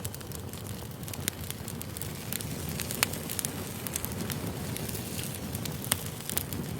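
Campfire crackling: a steady low rumble of burning with frequent irregular sharp pops and snaps, two louder snaps about three and six seconds in.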